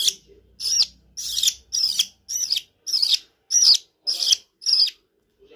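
Budgerigar giving a run of about nine short, sharp calls, roughly two a second, stopping shortly before the end.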